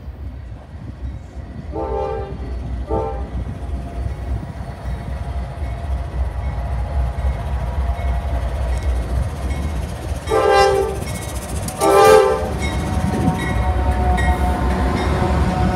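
Norfolk Southern freight train led by GE AC44C6M diesel locomotives passing close by, the engines giving a steady low rumble. A train horn sounds two short blasts about two and three seconds in, then two louder, slightly longer blasts around ten and twelve seconds in.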